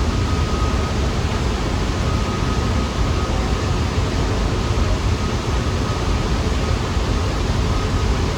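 New York City subway train running on the track at the station: a loud, steady rumble of wheels on rail, with a faint high tone that comes and goes.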